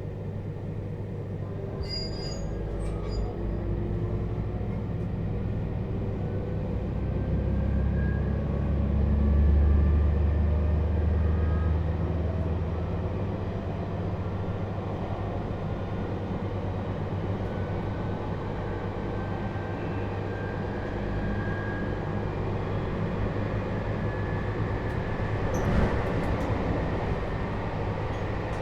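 Electric train running noise recorded inside a JR 721 series motor car: the low rumble of wheels on rail with the whine of its Toshiba GTO inverter traction motors, tones that rise in pitch as the train picks up speed. The rumble swells about a third of the way in, and there is a sharp knock near the end.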